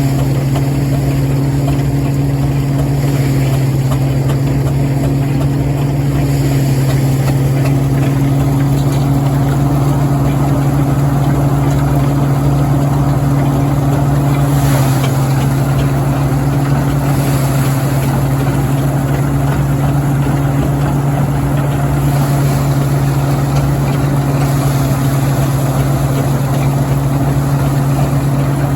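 Marshall general purpose steam engine driving a threshing machine by belt, running at working speed with a steady low hum.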